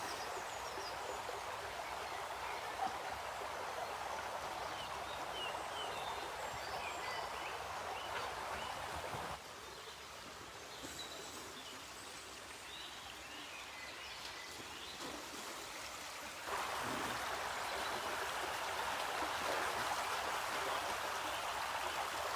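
River water rushing steadily, with faint short bird chirps over it. The water sound drops noticeably about nine seconds in and swells back louder about seven seconds later.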